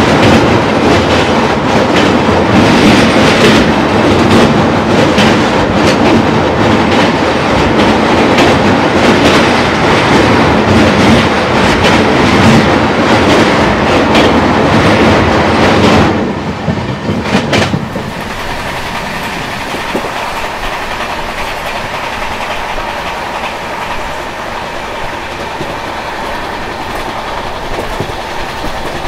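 Gatimaan Express coaches running at speed across a steel truss bridge: a loud, dense rumble with wheels clattering over rail joints. About sixteen seconds in the noise drops suddenly as the train comes off the bridge, and it carries on as a quieter steady run on plain track.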